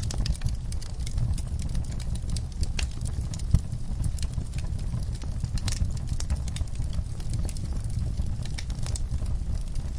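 Wood fire burning in a fireplace: irregular sharp crackles and pops over a steady low rumble of the flames, one crackle louder than the rest about three and a half seconds in.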